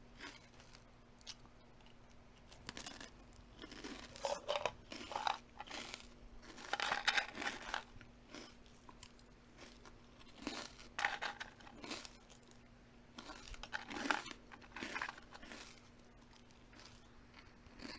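Close-up crunching and chewing of food in irregular bites every second or two, over a faint steady hum.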